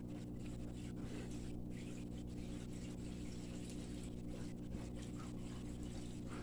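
Steady low hum with several steady tones under a faint hiss, as an EnviroFan Silverline ceiling fan coasts down with its power off.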